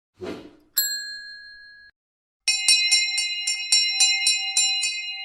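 A short noisy burst, then a single bell-like ding that rings for about a second and cuts off. After a pause, a fast run of bright chime strikes, about four a second, keeps ringing through the rest.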